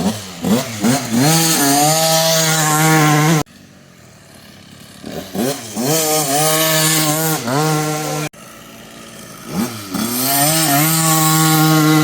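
Small dirt bike engine accelerating hard, its pitch climbing with brief dips at the gear changes and then held steady at high revs. This happens three times, and the sound cuts off suddenly about three and a half seconds in and again about eight seconds in.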